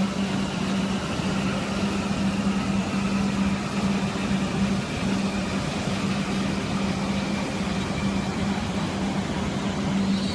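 High-speed train passing through a station: a steady rush of running noise with a constant low hum and a faint high whine that slowly falls in pitch.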